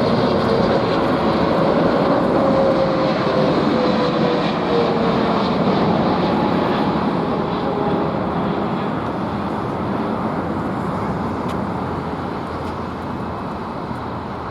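Jet airliner engines passing close by, a loud steady rush with a tone that slowly falls in pitch, the noise easing off over the last several seconds.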